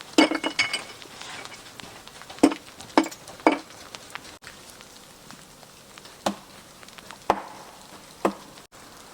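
Ice cracking and clinking: a quick cluster of glassy, ringing clinks at the start, then sharp crunches at about half-second intervals, and three more spaced about a second apart near the end, over a faint hiss.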